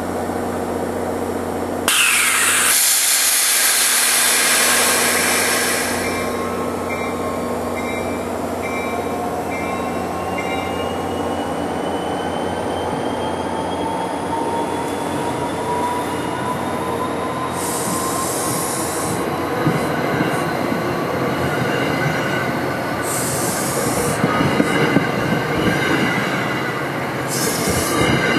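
Passenger train pulling out, its cars rolling past close by with wheel squeal and a slowly rising whine as it gathers speed. A sudden loud hiss about two seconds in.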